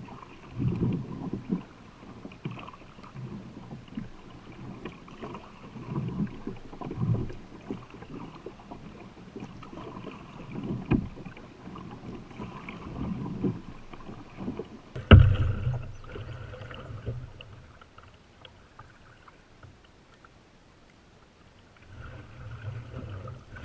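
Canoe paddle strokes in river water, splashing every second or two, with one sharp knock about fifteen seconds in.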